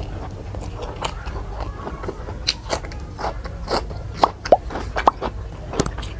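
Close-miked eating sounds: wet chewing and mouth smacks from a person eating a rice meal, in short irregular clicks that grow more frequent and sharper about halfway through.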